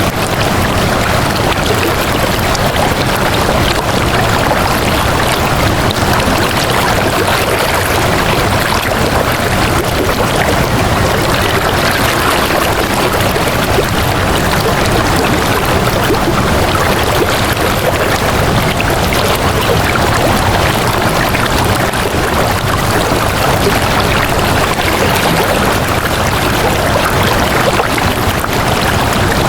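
Flowing water, a steady, unbroken rushing.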